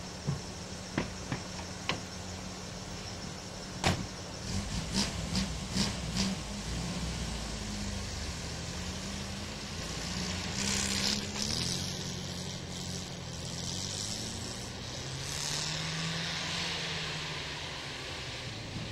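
Opel Manta's four-cylinder engine revving up and down as the car drives and slides across snow. There are a few sharp clicks in the first four seconds, and a rushing hiss about ten seconds in and again near the end.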